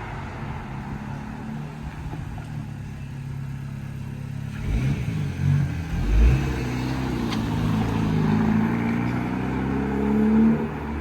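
Car engine running at low revs with a deep, pulsing note. It gives a couple of heavy surges about five to six seconds in, then its pitch climbs steadily toward the end as the car accelerates.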